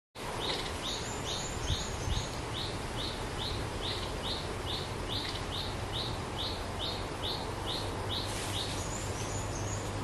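Nok dok taeng songbird calling a short note over and over, about twice a second, with a few higher notes around a second in and again near the end.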